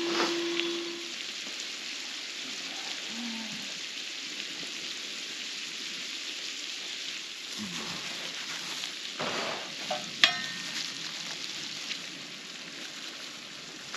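Onions, leftover tri-tip and eggs sizzling in butter in a pan as they are stirred and scrambled, with a utensil scraping now and then and one sharp metallic clink about ten seconds in.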